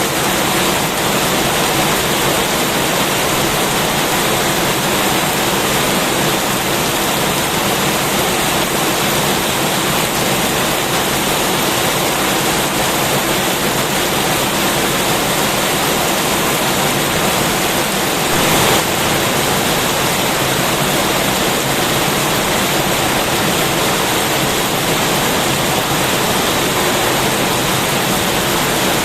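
Heavy rain falling steadily, a dense even hiss, briefly a little louder about two-thirds of the way through.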